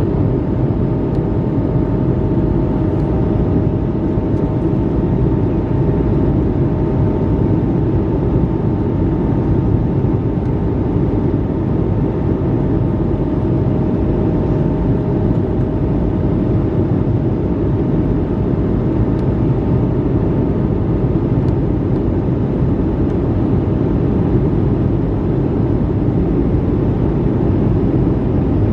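Steady cabin noise inside an Airbus A220-300 airliner: its Pratt & Whitney geared turbofan engines and rushing airflow make a constant deep rumble and hiss. Two faint steady whining tones fade out over the first half.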